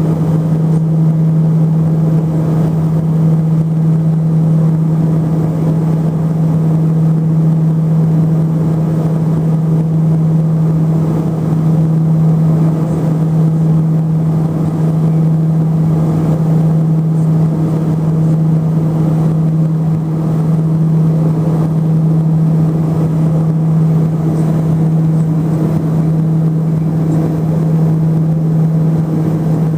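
Twin turboprop engines and propellers of a LET-410 heard from inside the cabin: a steady, loud drone with one strong low propeller hum.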